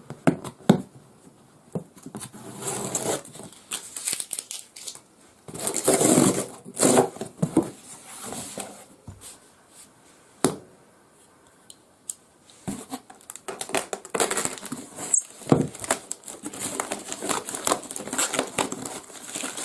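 Packaging being handled and opened: irregular crinkling and rustling of wrapping, with scattered sharp clicks and light knocks, and a quieter pause in the middle.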